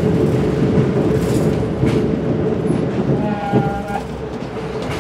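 Amtrak Keystone Service passenger train running, with a dense low noise and a steady hum. A few sharp clacks come through it, and a short pitched tone sounds a little past three seconds in.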